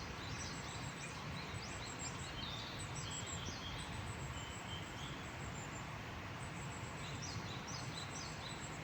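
Small birds chirping in short, high calls, in little runs about three seconds in and again near the end, over a steady outdoor background hiss.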